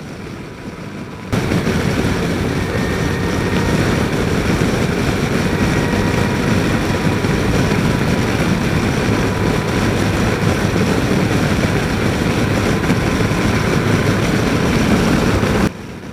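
Wind and riding noise from a motorcycle on the move, picked up by a helmet microphone, with a low engine rumble underneath. The noise switches in abruptly about a second in and cuts off just as suddenly near the end.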